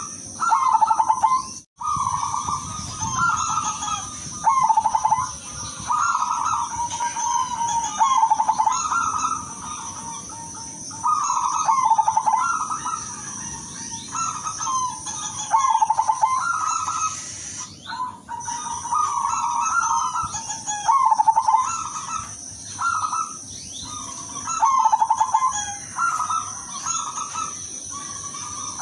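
Silver zebra dove (perkutut) cooing: a string of rolling, pulsed coo phrases repeated every second or two. A steady high-pitched whine runs behind them.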